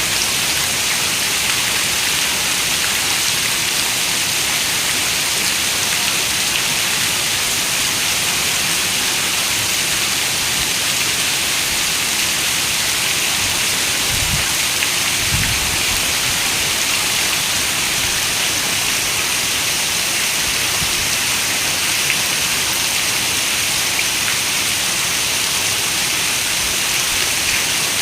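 Heavy rain falling steadily on a window, an even hiss with no let-up. About halfway through, two brief low rumbles sound under the rain.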